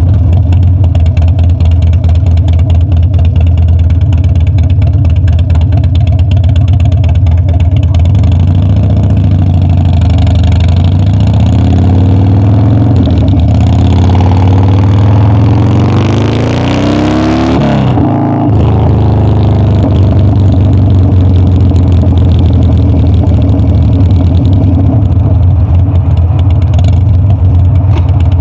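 Harley-Davidson Dyna's V-twin engine running steadily, then revving up with its note climbing for several seconds around the middle. The note drops abruptly and the engine settles back to steady running.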